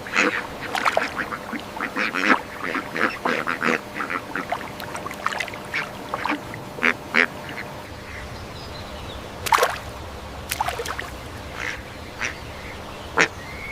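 Birds calling in many short, quick calls, crowded together at first and then thinning out, with a few louder calls near the end.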